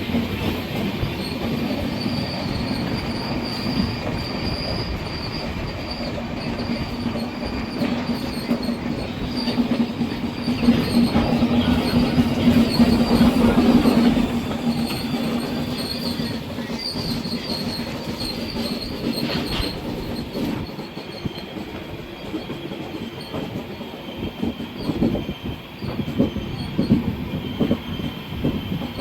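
Passenger express train running on the rails: steady wheel-and-track rumble with rail-joint clatter and a thin squeal from the wheels. A low hum swells and grows louder about halfway through, then eases off, and irregular knocks come near the end.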